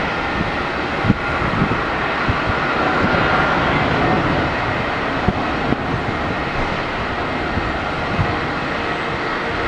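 Jet airliner's engines, a steady rushing noise with a faint whine, with a few sharp clicks in between.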